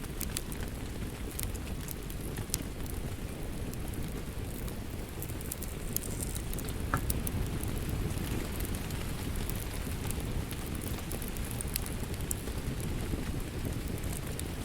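Steady rain ambience mixed with a crackling wood fire, which gives scattered sharp little pops over the even rain noise.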